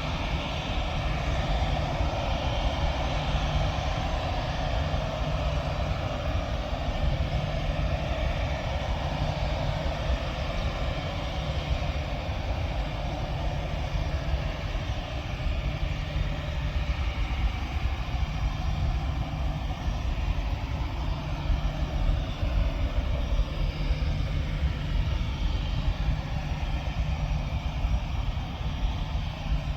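Airplane engines running at an airport, a steady rumble with a slowly shifting whine over it.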